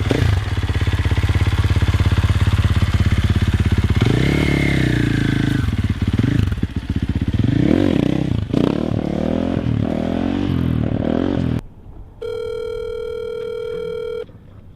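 Dirt bike engine idling, then revved several times, rising and falling in pitch, before the sound cuts off suddenly. About half a second later a steady telephone call tone sounds for about two seconds, the phone call being placed.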